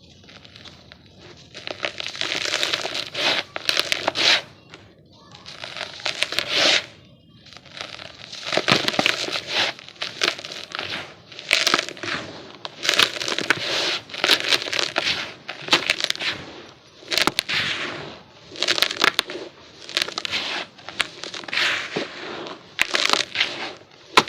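Chunks of dry, gritty yellow dirt being crumbled and crushed by hand, giving a run of crunchy, crackling bursts about every second or two, starting about a second and a half in.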